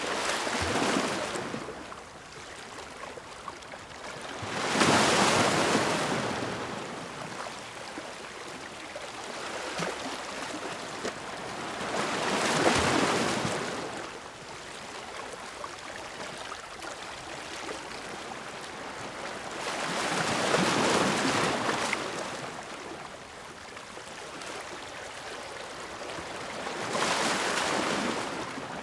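Ocean waves crashing against rocks: five surges of white-noise wash, one about every seven to eight seconds, each swelling and falling away over a couple of seconds, with a steady lower rush of water between them.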